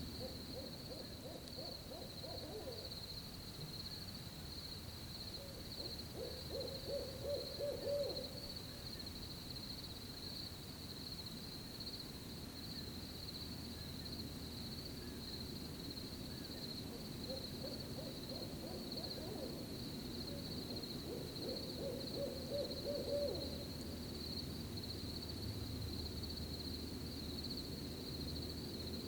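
An owl hooting in four short runs of quick hoots, over a steady high-pitched chirring of crickets.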